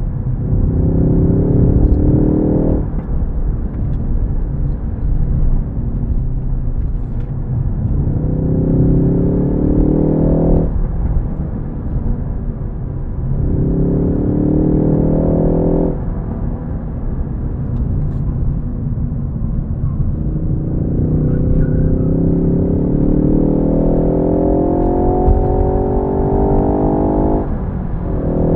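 Ford Focus ST's engine pulling under acceleration several times, its note rising steadily and then dropping off abruptly as the throttle is lifted or a gear is changed, with the longest pull near the end. A steady low road rumble runs underneath.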